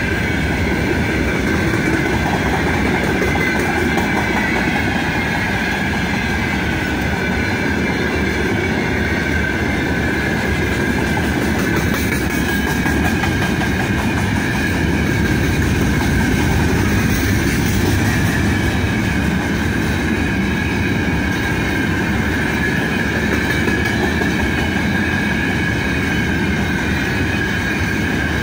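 Freight train of open-top gondola wagons rolling steadily past on the rails, a continuous rumble of wheels on track with a steady high-pitched whine over it.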